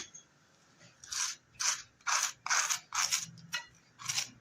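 A series of short rasping strokes, about two a second, starting about a second in.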